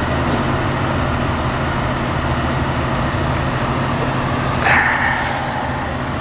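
Steady low hum of an idling motor vehicle engine, with a short higher-pitched sound about four and a half seconds in.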